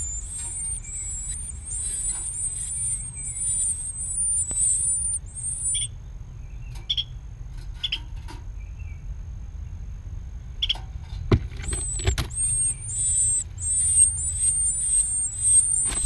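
Nestling birds giving rapid, high-pitched begging calls in a dense run. The calls stop about five seconds in and start again after about eleven seconds, over a steady low rumble.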